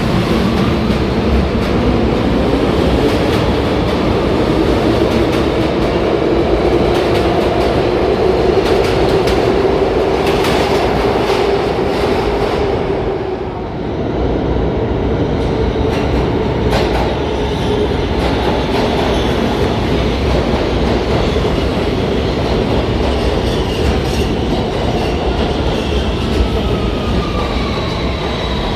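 New York City Subway train in the station, its motors whining and wheels clattering over the rails. The whine rises at the start, the sound dips briefly about halfway through, and near the end a falling whine comes in as a train slows.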